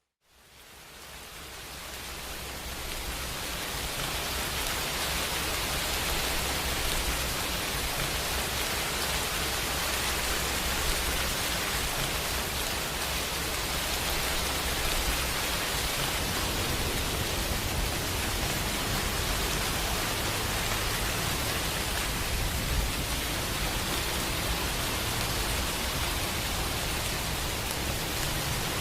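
Steady rain, fading in from near silence over the first few seconds, with a low rumble underneath.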